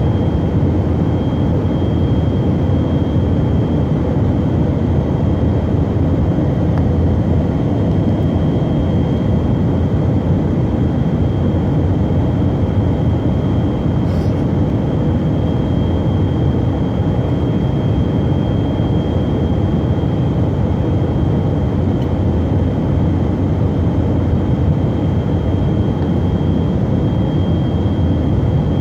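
Steady cabin noise of a Tupolev Tu-134AK in level cruise: a dense, even rumble from its two rear-mounted Soloviev D-30 turbofans and the airflow, with a thin steady whine high above it.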